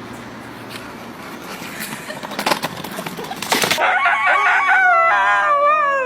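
A chicken: noisy scuffling and rustling for about four seconds, then loud squawking cries that slide down in pitch.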